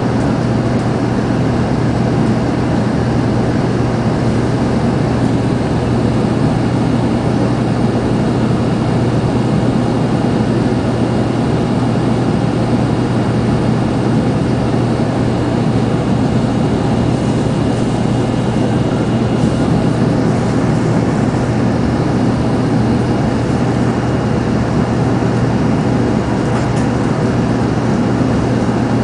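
Steady running noise inside the passenger cabin of a 0 Series Shinkansen train: a constant rumble and rush with a steady low hum under it.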